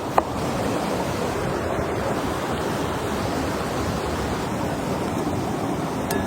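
Steady low rushing noise, with one short sharp click just after the start.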